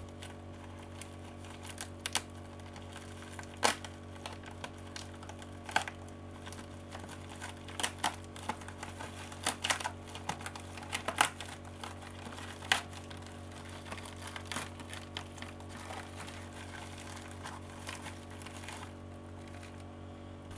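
A parcel's packaging being opened by hand: scattered crinkles, rips and snaps of plastic or paper wrapping. Under it runs a steady low electrical hum.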